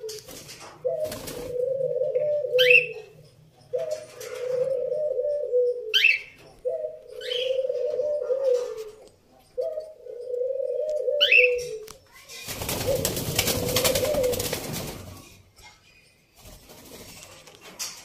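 A low, wavering two-second cooing call repeats about every three seconds, five times, with a few short, quickly rising high calls from the parakeets in between. About twelve and a half seconds in, a two-second rush of noise covers one coo.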